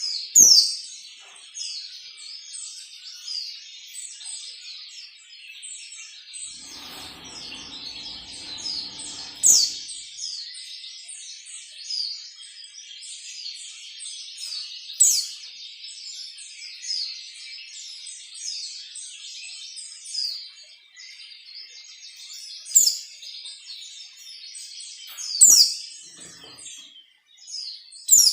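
Pleci (white-eye) singing a rapid, unbroken stream of high twittering chirps. Every few seconds a loud, sharp piercing note stands out from the stream; these are the 'tembakan' (shot) notes of the ngalas song style. A soft low rustling noise comes in briefly about a quarter of the way in.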